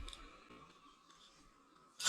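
Near silence, with a few faint clicks near the start.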